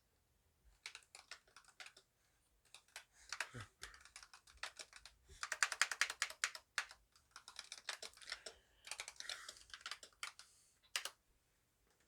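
Typing on a computer keyboard: runs of rapid key clicks in bursts with short pauses between them.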